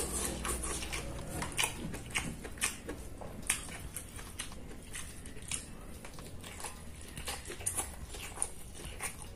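Close-miked chewing and eating: irregular wet mouth clicks and smacks, a few a second.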